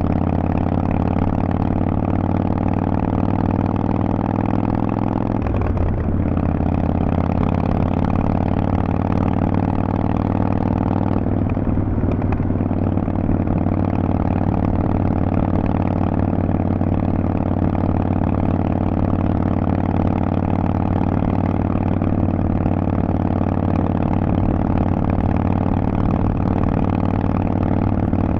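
Harley-Davidson Forty-Eight's air-cooled 1200 cc V-twin running steadily through Vance & Hines aftermarket pipes, its exhaust note holding an even pitch, with brief changes about 6 and 12 seconds in.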